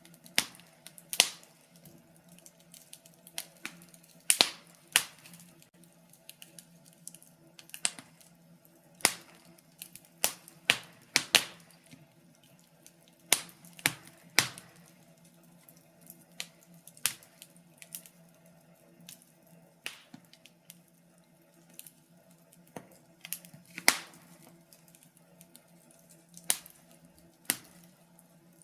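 Wood fire crackling: irregular sharp snaps and pops, some loud, a few close together, over a faint steady low hum.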